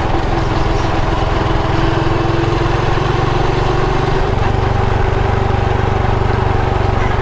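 Motorcycle engine running steadily under way, its note changing about four seconds in.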